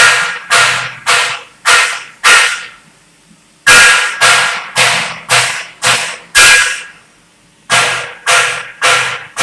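Hammer blows on steel, about two a second in runs of several strokes, each blow ringing briefly like struck metal. The blows stop for about a second twice, before starting again.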